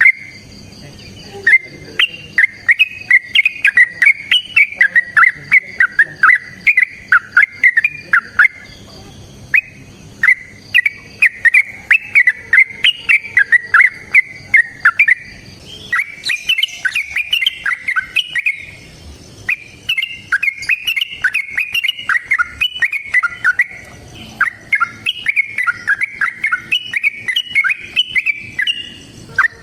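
Yellow-vented bulbul (trucukan) singing long, fast runs of bubbly, warbling notes, broken only by brief pauses.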